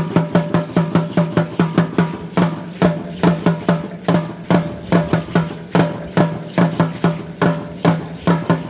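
Drum beating the fast, steady rhythm of an Aztec-Chichimeca dance son, about four to five strokes a second; the strokes space out near the end.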